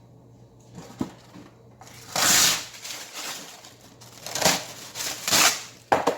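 Several short bursts of rustling and crinkling, the loudest about two seconds in, with a sharp click about a second in and another near the end: kitchen handling noises as a baking pan holding a raw chicken is wiped and readied for wrapping.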